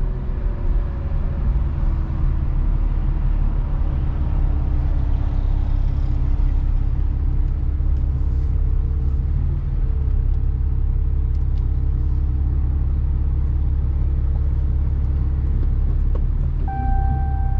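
Truck driving, heard from inside the cab: a steady low engine and road rumble whose engine note slowly falls, then steps up about ten seconds in. A short steady beep sounds near the end.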